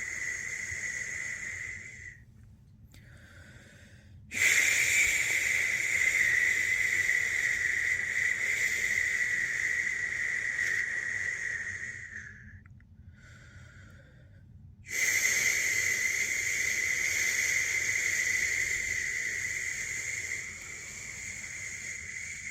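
A person shushing a newborn to sleep with long, steady 'shhh' sounds, each held for several seconds. It breaks off twice for two to three seconds, about two seconds in and again about twelve seconds in, dropping to a faint hiss before the shushing starts again.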